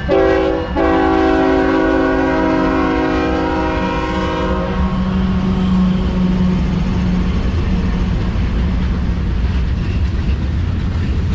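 Diesel locomotive horn sounding a short blast, then a long blast of about four seconds. It is followed by the steady rumble of the locomotives' engines and the train rolling past. The horn belongs to a Union Pacific SD70M leading a passenger train.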